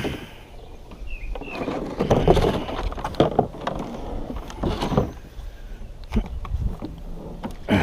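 Handling noise: rustling and knocks as the watermaker membrane unit and its case are moved about, loudest about two to three and a half seconds in and again near five seconds. A couple of short chirps sound about a second in.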